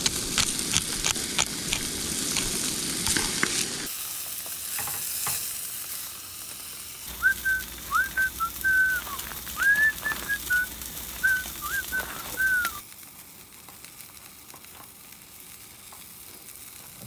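Salmon fillets sizzling in hot oil in a frying pan, with many sharp pops of spitting oil in the first few seconds, then a softer steady sizzle. In the middle, a run of short high whistled notes sounds over the frying for about five seconds.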